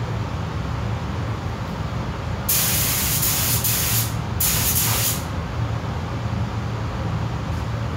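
Compressed-air gun hissing in two bursts, the first about a second and a half long and the second under a second, over a steady low hum.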